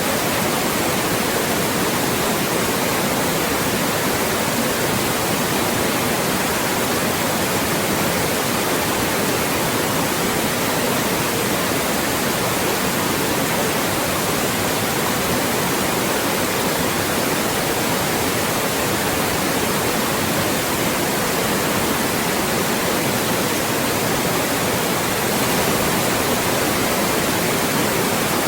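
Loud, steady white noise: an even hiss across the whole range that never changes.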